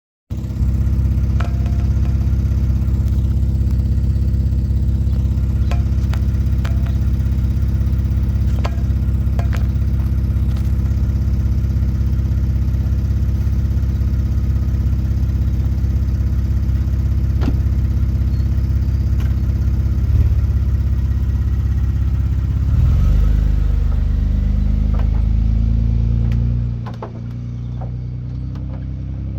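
A vehicle's engine running hard with a steady low drone, with scattered clanks and knocks from a shredded tire. The engine's pitch shifts about three-quarters of the way through, then it eases off and drops quieter near the end.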